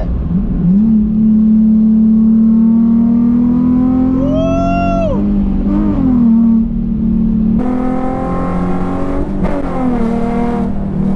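Car engine pulling hard under acceleration: the revs climb at the start and are held high, rising slowly, then dip and recover about five to six seconds in. A rushing noise joins in for the last few seconds.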